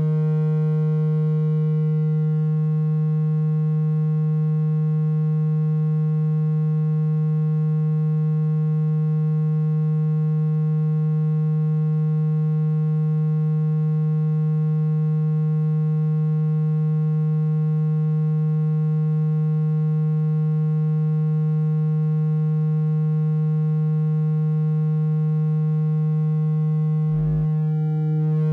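Steady low-pitched electronic tone with a buzzy row of overtones, the vibration tone played through a phone speaker to shake water out of it. It breaks off briefly with a click near the end.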